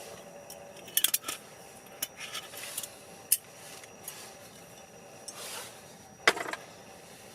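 Scattered light clinks and knocks of tableware being handled, with a cluster of sharp ones about a second in and the loudest knock a little past six seconds.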